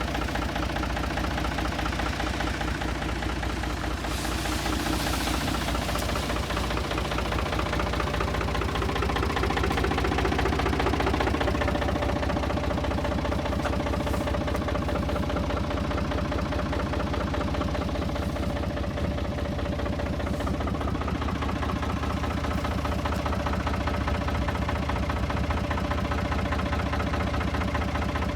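Diesel engine of a Heden FC1340 truck running steadily at idle, with an even, rapid pulse from the firing strokes.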